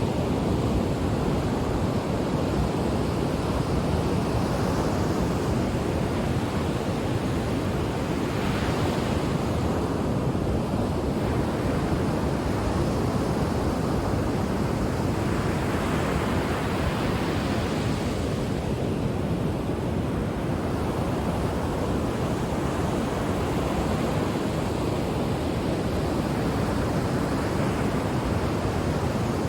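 Ocean surf: a continuous wash of waves on the shore, swelling louder as waves break about eight, sixteen and twenty-five seconds in.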